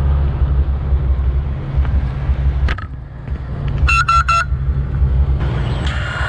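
Low wind rumble on the microphone, with a click about three seconds in and then three quick electronic beeps from the FPV quadcopter's beeper or speed controllers as it is being armed.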